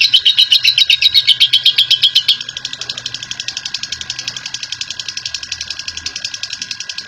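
Lovebird giving its long 'ngekek' chatter: a rapid, even string of sharp high notes at about ten a second. About two seconds in it drops in level and runs on slightly faster.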